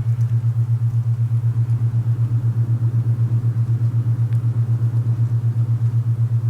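Alpha binaural-beat tone: a steady low hum that throbs evenly about eight times a second, with a faint rush of wind beneath it.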